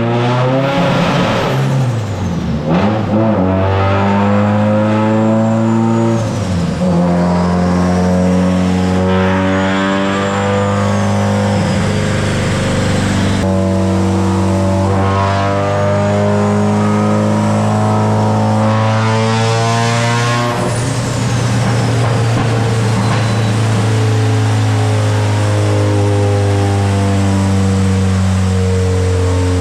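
A car engine running loud at held, steady revs, the pitch stepping to a new level every several seconds.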